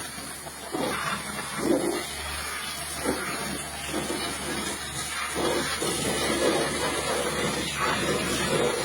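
Pressure washer spraying water, a steady hiss.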